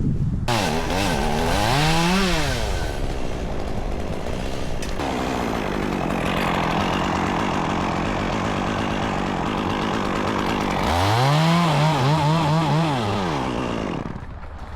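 Chainsaw engine revving up and down, running steadily in between, then revving hard again before dropping away near the end.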